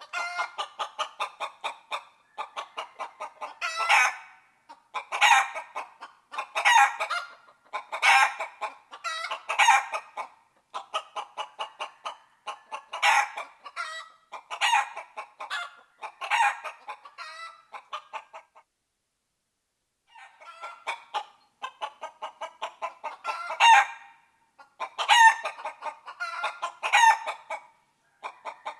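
Chickens clucking in rapid runs of short clucks, with louder calls every second or so. The sound stops for about two seconds partway through.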